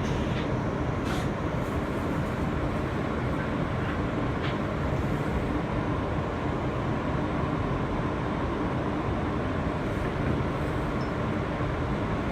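Steady interior noise of an R160B Siemens subway car, a constant low rumble with faint steady tones and a few small clicks.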